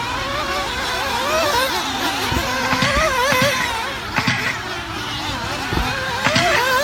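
Several nitro RC buggy engines, small two-stroke glow engines, racing around the track, their pitch rising and falling over one another as the drivers throttle on and off, with a couple of short louder bursts near the middle and end.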